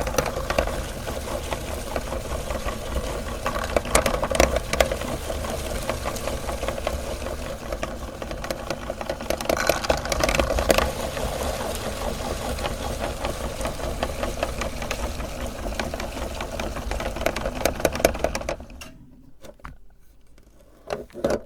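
Electric meat grinder motor running steadily while grinding chocolate candy, with crackling and crunching clicks on top and louder crunches about 4 and 10 seconds in. The grinder stops about three seconds before the end, leaving a couple of light knocks.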